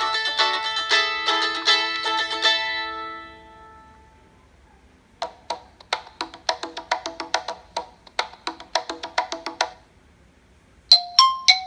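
Classic iPhone 4 ringtones playing one after another from the phone: a plucked-string tune that fades out about 4 seconds in, then a quick run of short plucked, wood-block-like notes, then a bell-like tune of alternating notes starting near the end.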